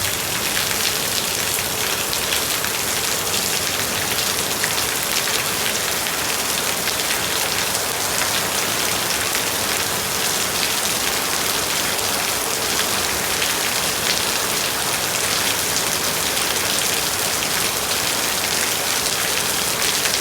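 Steady rain falling, an even hiss of many raindrops that holds without letting up.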